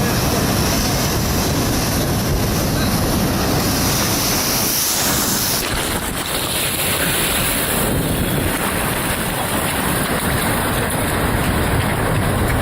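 Loud, steady rush of heavy surf mixed with wind buffeting the microphone.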